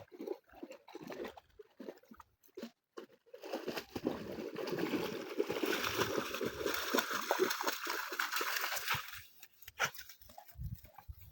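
Dogs wading and splashing in shallow river water: scattered splashes at first, then continuous sloshing and splashing from about four seconds in until near the end.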